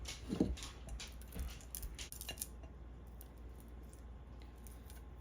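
Small clicks and scrapes of a utensil working syrup candy out of a pot into a small mold, with a brief low sound about half a second in; the handling stops after about two and a half seconds, leaving a faint steady hum.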